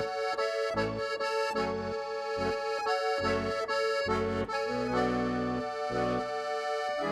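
Accordion music: a tune of held chords over a steady, pulsing bass line.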